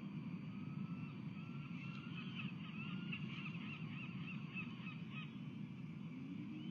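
Osprey calling: a quick run of high, repeated chirping notes from about two to five seconds in, over a steady low rumble of background noise.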